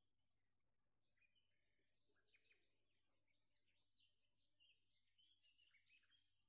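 Very faint bird chirping: a quick run of short, high chirps that begins about a second in and grows busier toward the end.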